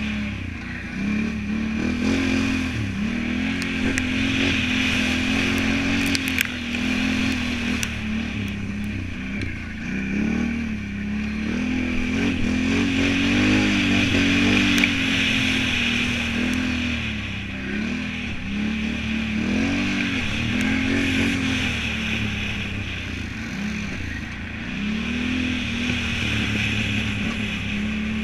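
Can-Am Renegade 1000 ATV's V-twin engine revving up and down over and over, the pitch rising and falling every second or two as the throttle is worked.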